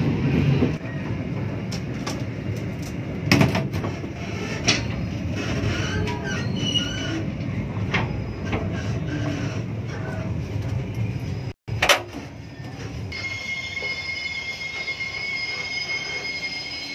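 Passenger train running on the rails, a steady low rumble with occasional sharp clacks. After a sudden break about halfway through, a quieter stretch follows with a steady high-pitched squeal as the train slows into a station.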